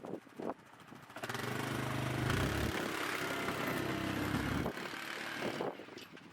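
A vehicle engine comes up about a second in, runs steadily and louder for about three and a half seconds, then drops away.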